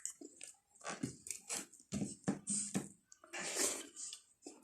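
A person eating, chewing a mouthful of pork with irregular wet mouth clicks and lip smacks.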